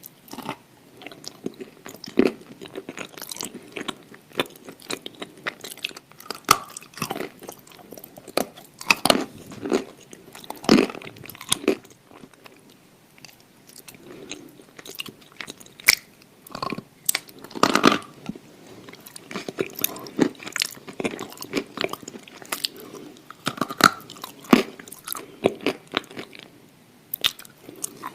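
Close-miked mouth sounds of someone biting and chewing something hard and crunchy: irregular crisp crunches and snaps, a few bites louder than the rest.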